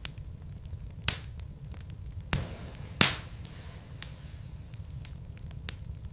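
Wood fire burning in a fireplace: logs crackling with many small ticks over a low steady rumble. Three sharp pops stand out, about one, two and three seconds in, the last the loudest.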